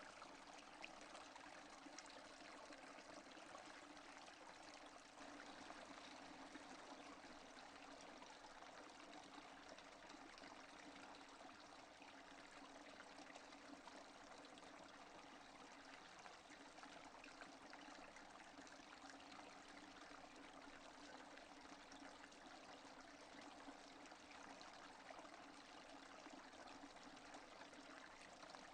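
Steady, soft rain: an even hiss of many small drops pattering, with no thunder.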